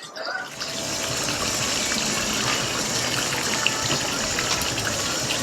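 Garden hose spraying water in a steady gush, starting about half a second in.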